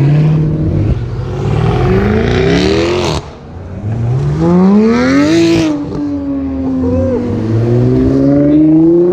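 A car engine revving hard in three rising pulls. The pitch climbs for a second or two, falls away sharply about three seconds in, then climbs again twice.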